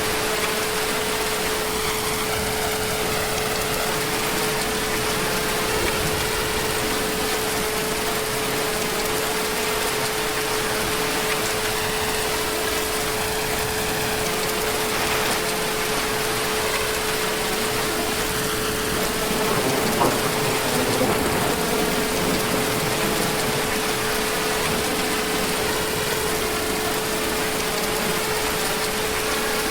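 Steady heavy rain, an even hiss, with a steady humming tone running through it.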